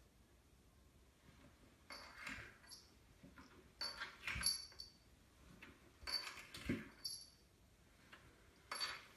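A cat sliding down carpeted or wooden stairs: short bursts of scraping and soft thumps as it drops from step to step, about every two seconds, four times.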